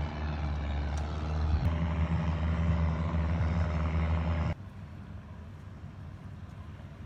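An engine running steadily with a deep, even hum. It cuts off abruptly about four and a half seconds in, leaving a much quieter low rumble.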